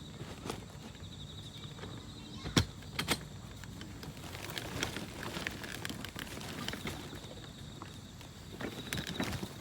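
Camping gear being handled: scattered clicks and rustles, with one sharp knock about two and a half seconds in and a quick double knock just after.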